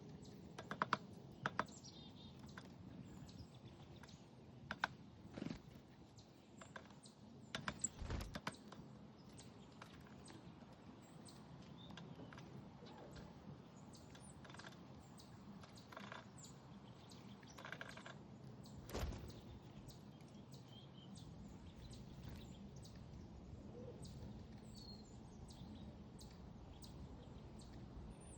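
Backyard feeder birds: faint, scattered short chirps, with irregular sharp taps and clicks, a few louder clusters in the first half, over a low steady background hum.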